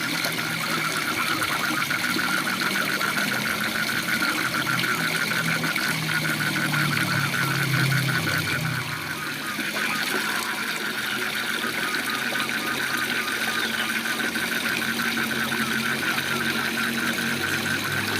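Waterfall rushing steadily under a chorus of frogs calling in rapid pulsed trills, with lower croaking pulses underneath.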